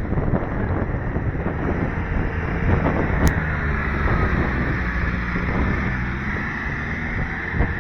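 Wind buffeting the microphone with a steady low rumble underneath, and a single brief high tick about three seconds in.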